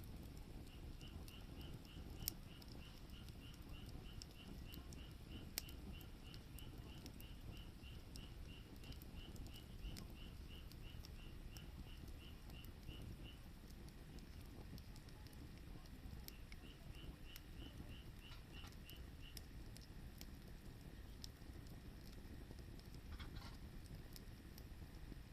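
Firewood burning in a campfire: faint crackling with occasional sharp pops over a low rumble. A repeating high chirp, about three a second, runs alongside for much of it.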